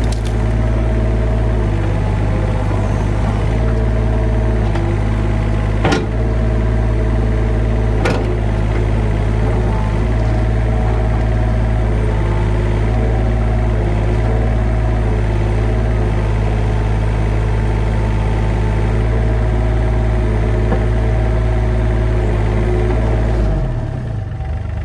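Heavy equipment engine running steadily, with two sharp knocks about six and eight seconds in. Near the end the engine winds down and stops.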